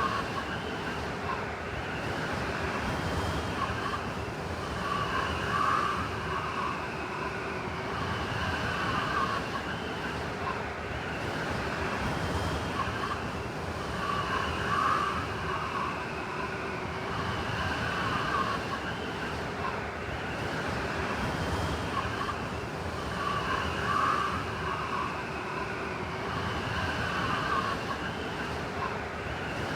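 Howling blizzard wind: a steady rush with wavering, whistling tones that swell and fade every few seconds.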